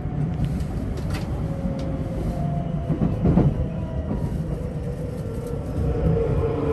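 Electric commuter train of the JR Osaka Loop Line running, heard from inside the carriage: a steady rumble of wheels on the track, a faint whine from the motors and a few sharp clicks in the first couple of seconds.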